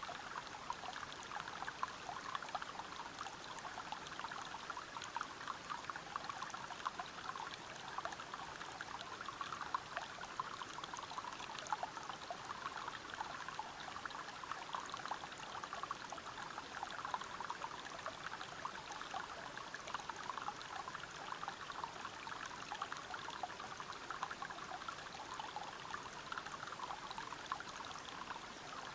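River water flowing over rocks below a waterfall: a steady rush flecked with many small splashes and gurgles, unchanging throughout.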